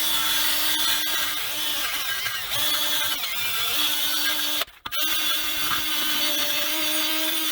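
A handheld power tool buffing rust off the inside of a truck wheel rim: a steady motor whine over a harsh scraping hiss of the buffer on the metal, with a brief break a little past the middle.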